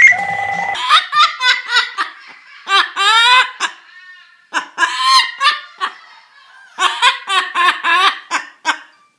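A pet parrot mimicking laughter, in several clusters of short, high, bending 'ha-ha' notes. At the very start a ringtone-like electronic tone ends abruptly.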